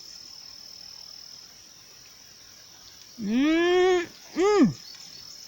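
A woman's voice making two closed-mouth "mmm" sounds of enjoyment while eating a ripe plum: a long one that rises then falls, then a short falling one. Behind them is a steady high insect chirring.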